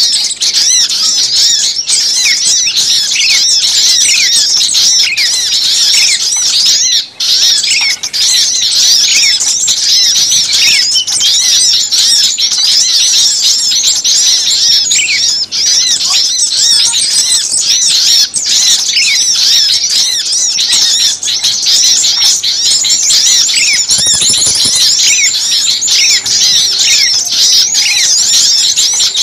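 A dense, noisy chorus of many small songbirds chirping and calling over each other in quick, high-pitched notes without a break. It is a bird-lure recording of excited small birds.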